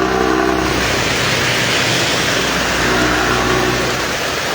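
Steady rush of heavy rain and strong wind, with vehicle engines humming near the start and again about three seconds in, passing on the road.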